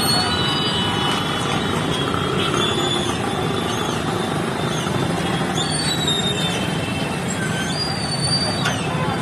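A heavy diesel engine, such as a bulldozer's, running steadily, with thin high squeals now and then.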